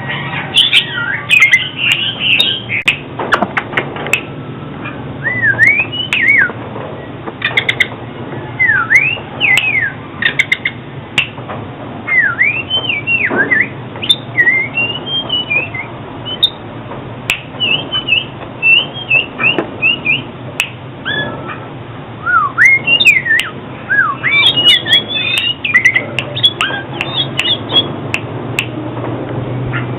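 Oriental magpie-robin singing a steady run of varied whistled phrases that slide up and down, mixed with short harsh notes and clicks, over a low steady hum.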